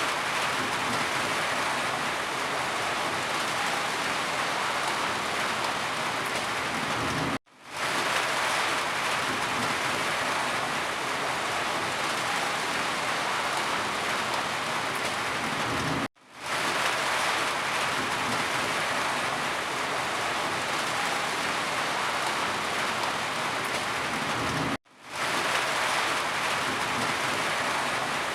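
Steady heavy rain falling, a dense even hiss. Three times, about every nine seconds, it cuts out to near silence for an instant and fades back in.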